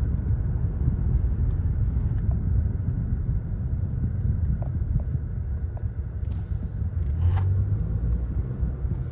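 Car rolling slowly, heard from inside the cabin: a steady low rumble of engine and road, with a few faint ticks and a short hiss about six seconds in.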